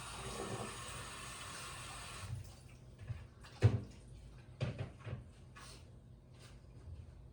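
A steady rushing sound of water that cuts off suddenly about two seconds in, followed by a few sharp knocks, the loudest a little after the middle.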